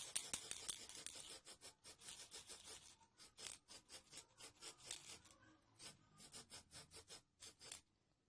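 Hand scraping or sanding on a small model part: a rough rub at first, then quick short strokes, several a second, stopping shortly before the end.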